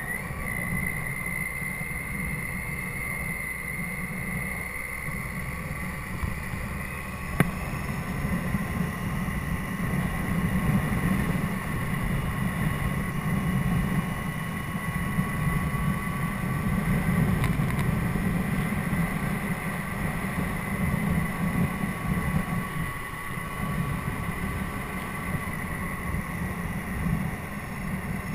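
Wind rumbling and buffeting over the microphone while riding a Triumph Tiger 800XC at speed, with a steady whine from the bike running underneath that drifts slowly in pitch. A single sharp click about seven seconds in.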